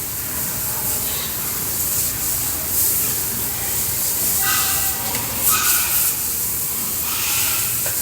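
Water spraying steadily from a hose, hissing, as pigs are washed down. Short pitched sounds come through about halfway through.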